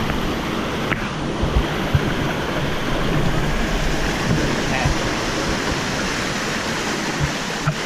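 Steady rush of a cascading waterfall and stream water, with a few brief low bumps scattered through it.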